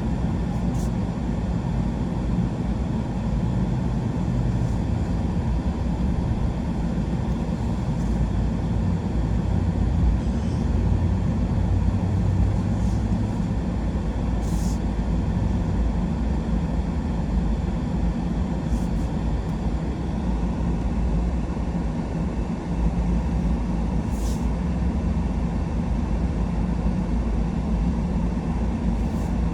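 A truck driving along, its engine and tyres making a steady low rumble, with a few faint clicks now and then.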